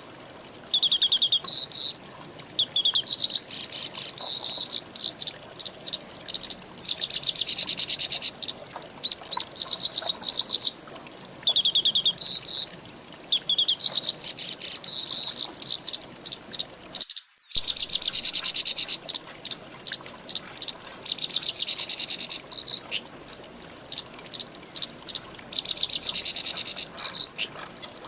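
Songbirds singing rapid, repeated chirping phrases and trills over a steady high insect buzz. All of it cuts out for about half a second roughly two-thirds of the way through.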